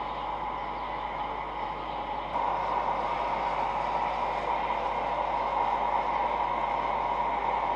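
Steady wash of distant city traffic noise, with no single vehicle standing out; it grows abruptly louder about two seconds in and then holds steady.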